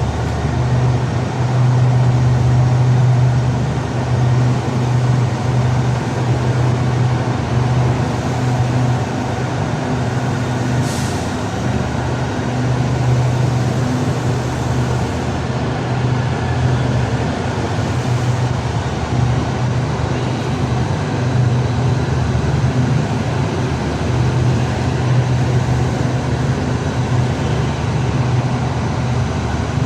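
Train running, a steady low drone over a broad rumble, with a short high hiss about eleven seconds in.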